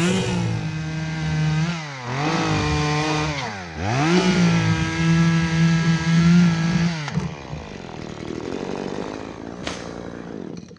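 Gas chainsaw revved to full speed three times and held there while cutting, the last stretch about three seconds long, then dropping back toward idle about seven seconds in.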